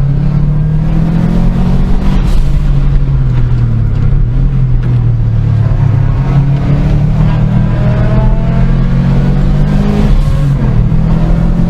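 Car engine running while driving, a steady note that rises and falls slightly with the throttle.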